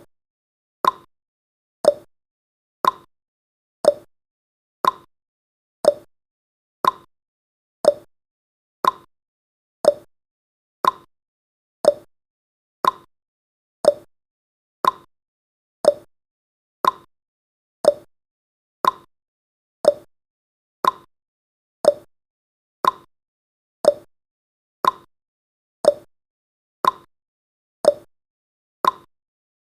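Countdown timer's tick sound effect: one short, sharp tick every second, evenly spaced, each dying away quickly.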